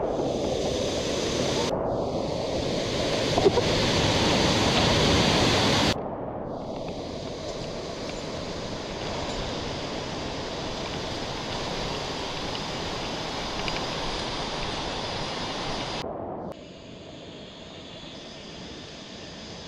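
Steady rushing water of a rain-swollen mountain stream, loudest for the first six seconds, with abrupt changes in level about two, six and sixteen seconds in.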